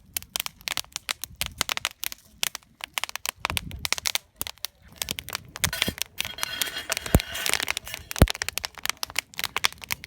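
Wood fire crackling in a fire stand: a dense run of irregular snaps and pops, with two sharper knocks late on.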